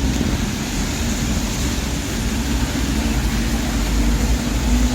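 Street traffic on a wet road: a steady low rumble of vehicle engines under a constant hiss, with a steady engine hum that grows stronger near the end.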